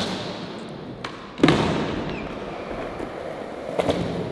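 Skateboard clacks and slaps on the ground: a few sharp knocks, the loudest about a second and a half in, followed by a rolling hiss of the wheels, then more knocks near the end.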